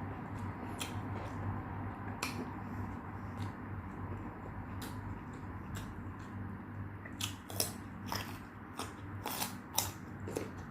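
Someone eating a meal: scattered soft clicks and smacks of chewing and of food being handled, with a few sharper clicks in the last few seconds, over a steady low hum.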